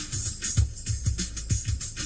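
Music with a steady drum beat, deep bass thumps and bright cymbals, played through a car's newly fitted Blam aftermarket speaker set as a sound demo.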